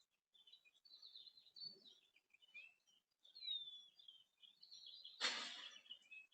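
Small songbirds chirping and calling, with one downward-sliding whistle about three seconds in. A short, loud rush of noise, about half a second long, comes a little after five seconds.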